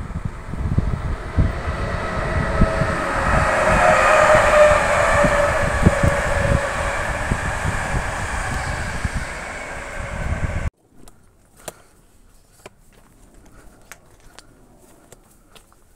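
Intercity passenger train rolling through a station, the wheel and rail noise swelling to a peak about four seconds in and then easing, with wind buffeting the microphone. It cuts off abruptly after about eleven seconds, leaving only faint scattered clicks.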